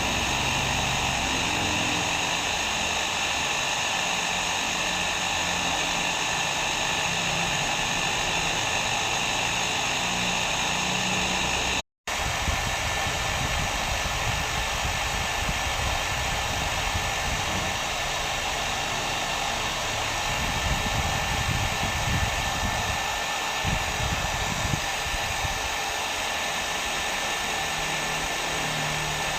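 Hair dryer running steadily, an even rushing noise with a few faint steady tones in it. The sound drops out for an instant about twelve seconds in, then carries on.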